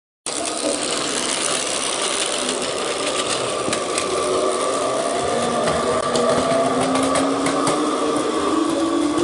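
Electric train motor whining and slowly rising in pitch as it picks up speed, with many small clicks and rattles.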